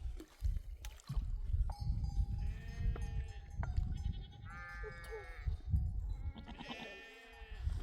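Sheep in a flock bleating, three calls a couple of seconds apart, over a low rumbling background.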